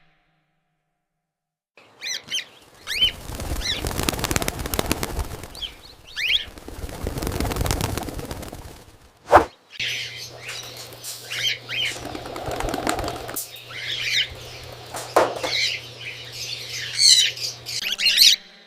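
Cockatiels chirping and flapping their wings in bursts, starting after about two seconds of silence. A sharp click comes about nine seconds in, and a low steady hum runs under the birds through the second half.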